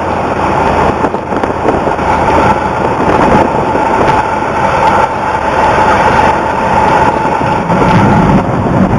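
Cessna 172's single piston engine and propeller running steadily, heard as a loud, continuous drone with a steady tone.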